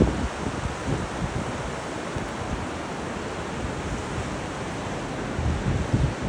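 Ocean surf washing steadily on a beach, with wind buffeting the microphone in low gusts near the start and again near the end.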